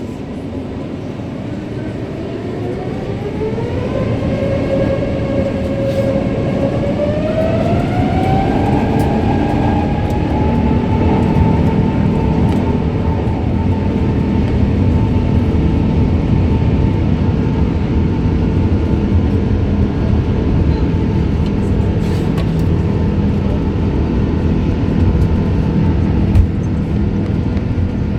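Airbus A350-900's Rolls-Royce Trent XWB engines spooling up to full takeoff power: a whine rises in two steps over the first ten seconds or so, then holds steady over a loud, growing rumble.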